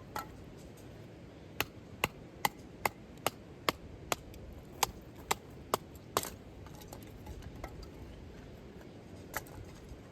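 A run of about a dozen sharp blows, roughly two to three a second, then a pause and one more blow near the end: a hand tool striking hard, as in chopping firewood or driving tent pegs.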